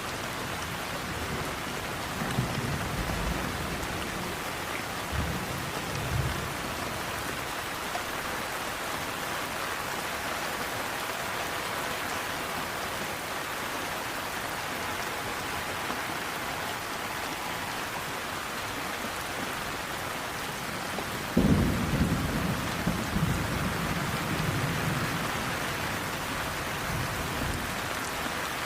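Steady heavy rain with rolls of thunder. A short rumble comes a couple of seconds in and another around five to six seconds, then a louder, longer roll starts about three quarters of the way through.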